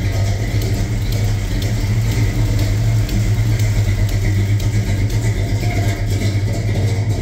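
Plymouth Barracuda's engine idling steadily, a constant low running note.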